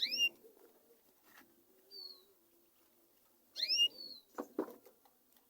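Canaries calling: two rising chirps, one at the start and one about three and a half seconds in, with short falling high notes in between, and a few sharp clicks near the end.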